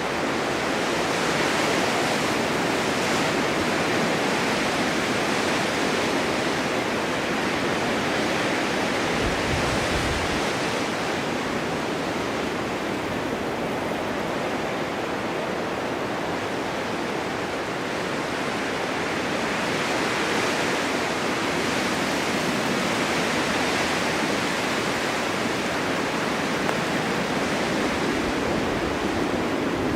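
Blizzard wind blowing steadily with blowing snow, swelling in gusts now and then, with a brief low buffet about ten seconds in.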